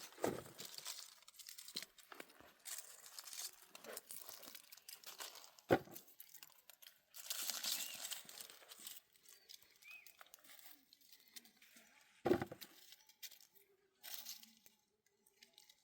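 Rustling, crackling and crunching of dry plant material being handled or trodden on, with two dull thumps, one about six seconds in and one about twelve seconds in.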